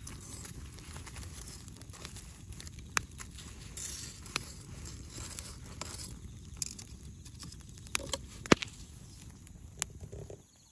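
Wood campfire burning over a steady low rush, the firewood giving off a few sharp pops and snaps, the loudest about eight and a half seconds in; the snapping is taken to come from moisture left in the wood.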